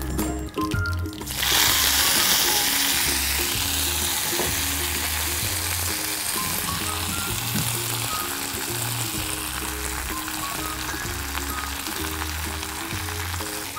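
Hot oil in a kadai starts sizzling loudly and suddenly about a second in, as fresh vallarai (Indian pennywort) leaves go in on top of the tempered mustard seeds, then keeps frying with a hiss that eases slowly.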